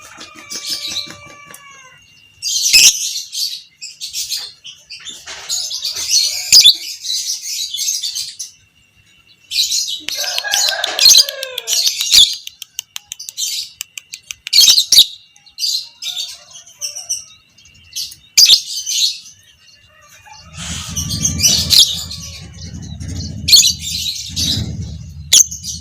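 Lovebird giving its long chatter (ngekek panjang): dense runs of high, shrill chirps in bursts of one to a few seconds with short gaps. About twenty seconds in, a low rumble joins underneath and carries on to the end.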